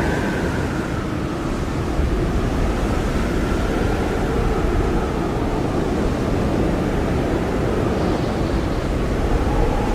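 Blizzard wind blowing hard and steadily, with a deep rumble and a whistling tone that slowly rises and falls in pitch.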